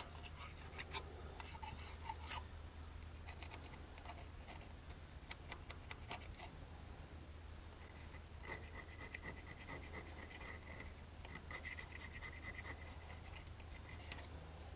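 Faint knife blade scraping old gasket material off a hydraulic filter cover plate: short scraping strokes and clicks, with a thin high squeal from the blade in the second half.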